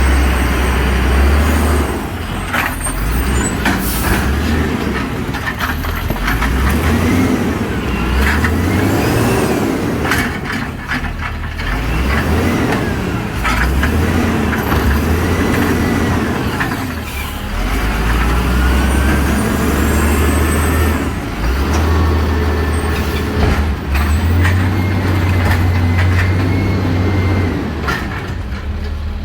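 Vintage garbage truck running at work during recycling pickup: the engine's heavy rumble rises and falls, with rising and falling whines and several short sharp noises along the way.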